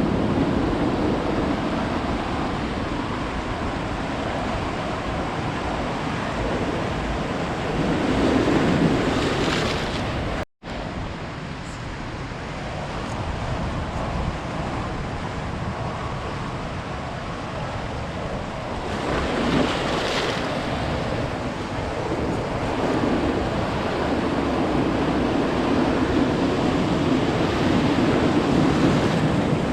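Ocean surf breaking on a beach: a steady wash of water with two louder surges as bigger waves break, about a third and two thirds of the way through. The sound cuts out for an instant about ten seconds in.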